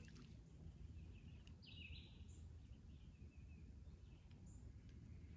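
Near-silent outdoor ambience: a steady low rumble with a few faint bird chirps, the clearest about two seconds in.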